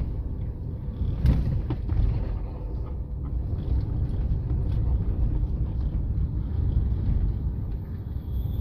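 Vehicle driving down a mountain road: a steady low rumble of engine and tyres, with a brief knock about a second in.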